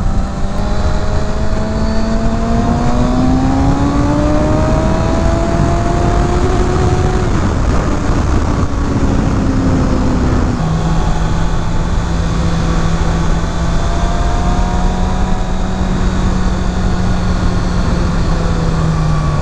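Kawasaki Ninja ZX-6R's inline-four engine under way with wind rush: the revs climb over the first several seconds, fall away, and then hold steady from about halfway.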